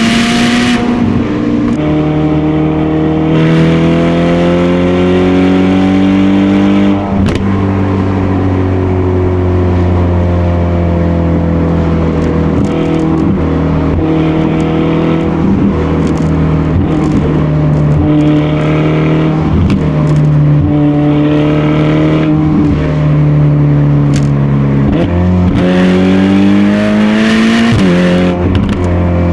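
Ferrari Portofino's stock-exhaust twin-turbo V8 accelerating through the gears. The note climbs and drops sharply at upshifts several times near the start, holds fairly steady and sags slowly through the middle, then climbs through two more upshifts near the end.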